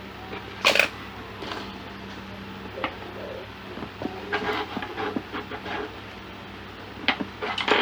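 Irregular knocks, clicks and scraping of tools and parts being handled on a workbench during an electronics repair, the loudest about a second in and near the end, over a steady low hum.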